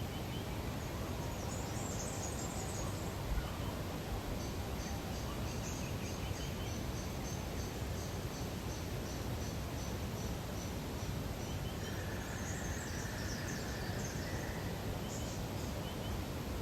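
Wild birds calling over a steady hiss of outdoor ambience: a quick run of high, evenly spaced chirps lasting several seconds, a few short high twitters, and one brief lower trill in the second half.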